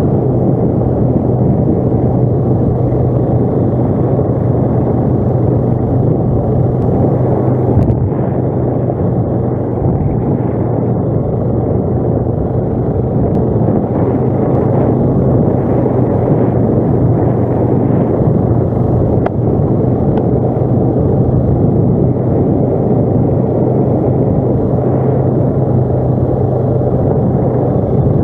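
ATV engine running steadily while riding, a constant drone that holds one pitch throughout.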